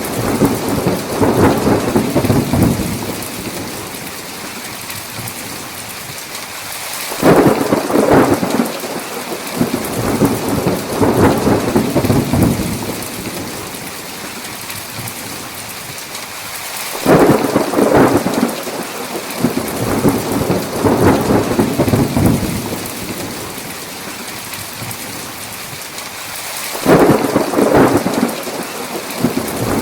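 Steady heavy rain with rolls of thunder: one fading in the first few seconds, then three more about ten seconds apart, each starting suddenly and rumbling for several seconds.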